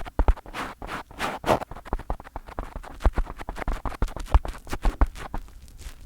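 Fingers touching and rubbing directly on a microphone: an irregular run of close taps and scratchy brushing strokes, with deep thuds from the contact.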